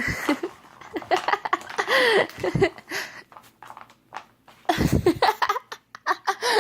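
A person laughing and giggling in short bursts, with scattered light clicks and knocks from a cat batting at its toy.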